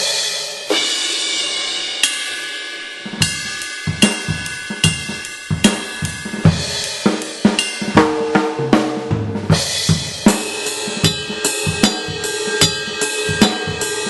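Electronic drum kit triggering sampled acoustic drums and cymbals through a 2Box module. A few cymbal crashes ring out over the first three seconds, then a steady beat of kick drum, snare and cymbals.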